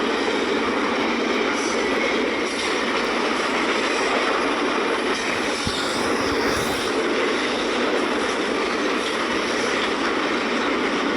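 Intermodal freight train's cars rolling past: a steady noise of steel wheels on the rails, with some clickety-clack over the rail joints.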